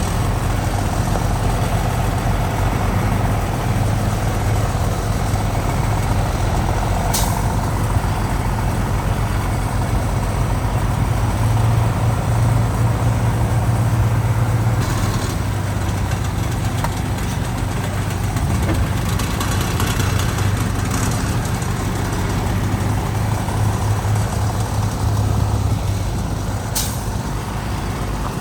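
Heavy diesel engines of earthmoving machinery, a bulldozer and dump trucks, running steadily with a low rumble. Two brief sharp hisses cut through, one about seven seconds in and one near the end, like a truck's air brakes.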